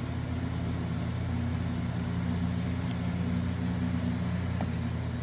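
Utilitech all-plastic box fan running steadily on medium speed: a steady motor hum with an even rush of air.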